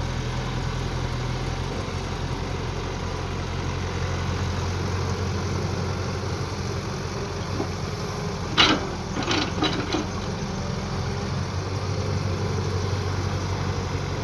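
Mini excavator's engine running steadily while it digs, with a short run of sharp clanks a little past the middle.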